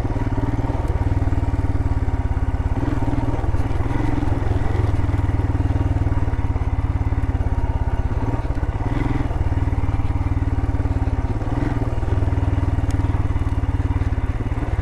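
Royal Enfield Himalayan's single-cylinder engine running at low revs, with the engine note rising and easing a few times.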